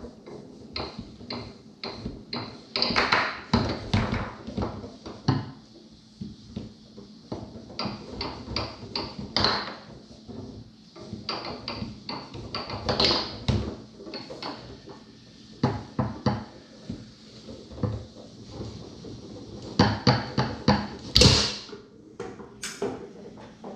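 Tornado foosball table in play: the ball clacking off the players and the table walls in irregular runs of sharp knocks, with a few louder strikes.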